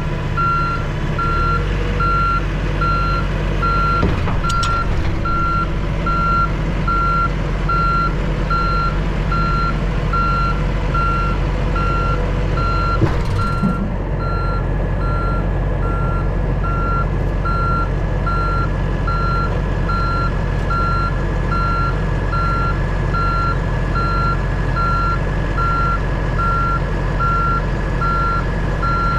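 Backup alarm beeping at an even rhythm over a diesel truck engine running steadily, as the Freightliner M2 106 rollback reverses.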